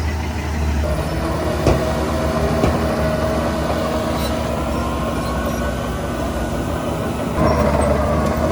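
Heavy diesel earthmoving machinery running, with a steady engine drone and a higher whine that drifts up and down. Two sharp metallic clanks come about two and three seconds in, and a deep rumble swells louder near the end.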